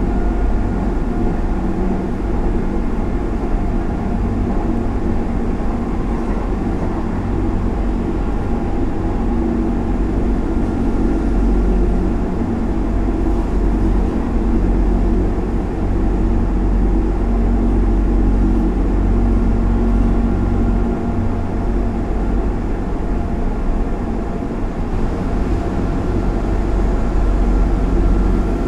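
Inside the carriage of a Hanshin Railway express electric train running at speed: a steady rumble of wheels on rails with a faint constant hum, a little louder near the end as it runs past a station platform.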